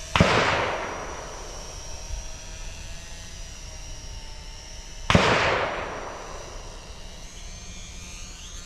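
Two shotgun blasts about five seconds apart, each echoing away over about a second, over the faint steady high whine of a small quadcopter drone hovering.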